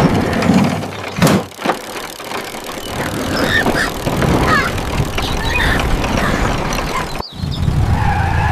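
A vehicle engine sound effect running steadily, with short squeaky vocal chirps over it; the sound drops out for an instant about seven seconds in.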